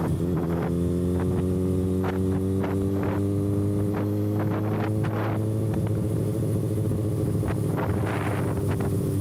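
Kawasaki ZX-6R inline-four running at a steady cruising speed, its exhaust open with the canister removed, holding an even pitch that drifts only slightly. Gusts of wind buffet the microphone.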